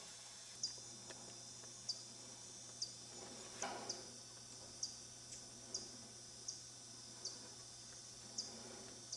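Insects trilling steadily in a high, even hiss, with a short sharp chirp repeating about once a second.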